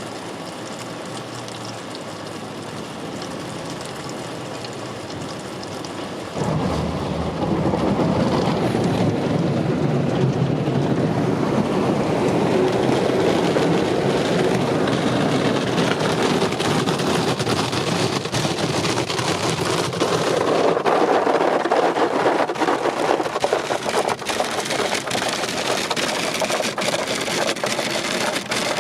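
Water spraying and splashing onto a car inside a Ryko Softgloss MAXX rollover car wash, a steady rushing noise that suddenly grows much louder about six seconds in as the wash passes over the car.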